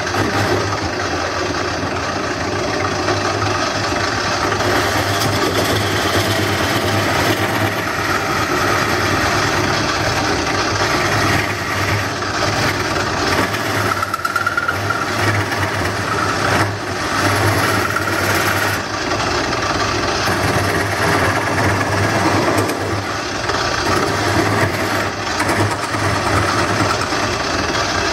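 Wood lathe running steadily with a hand-held turning tool cutting into the spinning wooden bowl as it is hollowed: a continuous scraping hiss over the motor's steady hum.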